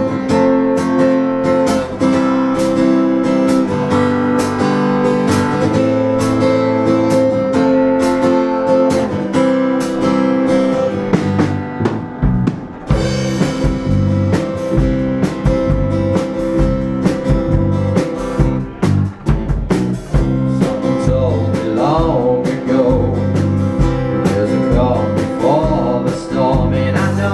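Acoustic guitar strumming chords in a song's instrumental intro, with a steady beat.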